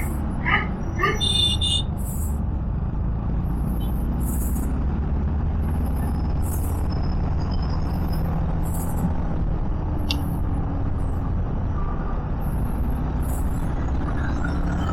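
Steady riding noise of a Suzuki V-Strom SX 250 at road speed: single-cylinder engine and wind rumble on the camera microphone. Short horn beeps from traffic sound about a second in.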